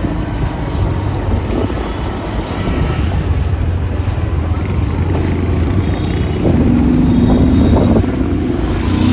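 Motorcycle on the move in traffic: a steady low engine drone mixed with road noise, with a higher steady tone joining for a second or two about six and a half seconds in.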